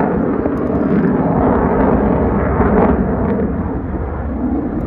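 Aircraft flying past, its engine noise a loud, steady rush with no clear tone.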